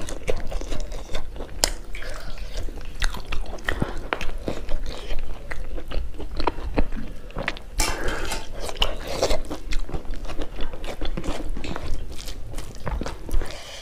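Close-miked eating: a person chewing and biting mouthfuls of food, with a dense run of short mouth clicks and smacks throughout.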